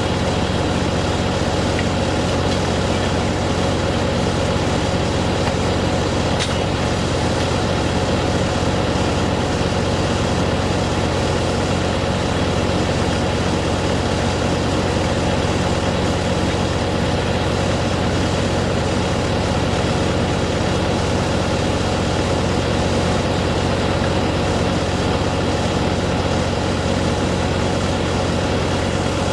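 A large engine running steadily at one constant speed, with a steady hum.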